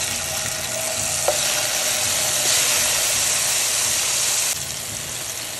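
Tomato slices frying in hot oil in a frying pan, a loud, steady sizzle that eases off a little about four and a half seconds in.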